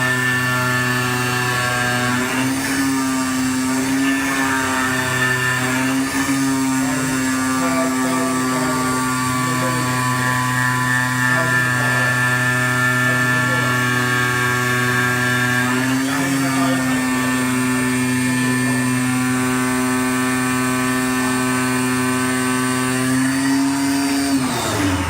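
Motor of an AOKE DCZ76 flatbed CNC cutter running with a steady, pitched whine, the pitch dipping briefly a few times, then winding down near the end.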